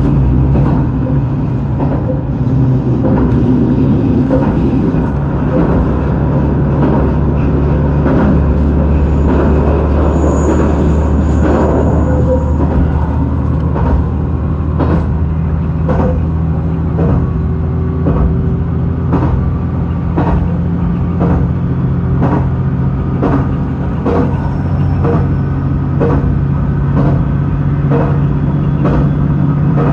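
JR Shikoku 2000-series diesel railcar running: a steady low diesel engine drone with wheels clicking over rail joints at regular intervals.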